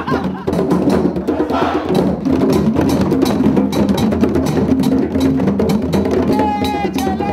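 Hand drums struck together by a group in a quick, steady rhythm, with a brief warbling high sound near the end.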